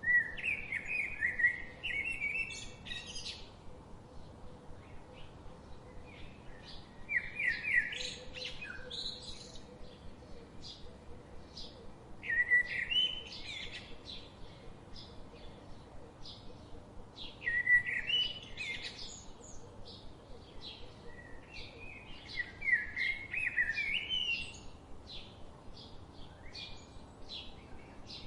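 Birdsong: a bird sings a repeated phrase of about two to three seconds, once every five seconds or so. Faint, quick chirps run between the phrases.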